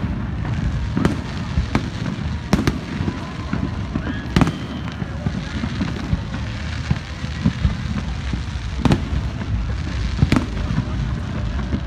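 Fireworks display: aerial shells bursting with about seven sharp bangs at irregular intervals, several close together early on, then a lull before two more near the end, over a steady low rumble.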